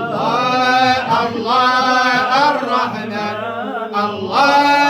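Moroccan madih (religious praise song) chanted by a male voice, with long melismatic phrases that rise and fall and break for breath about every second or two.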